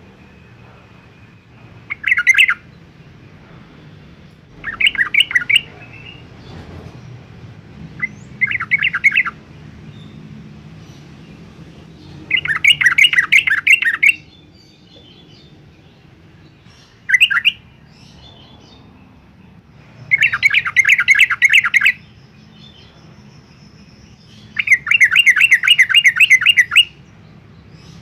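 Yellow-vented bulbul singing: seven short phrases of rapid notes a few seconds apart, the later ones longer, about two seconds each.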